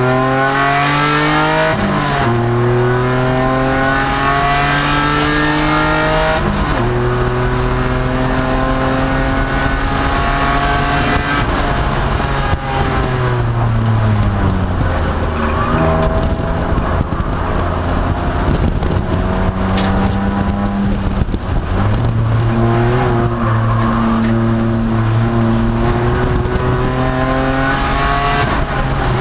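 A 2002 Nissan Maxima's 3.5-litre V6 at race pace. Its revs climb and step down through two upshifts in the first seven seconds, then fall away under braking and downshifts and stay low for several seconds. They climb again through the gears before dropping back near the end.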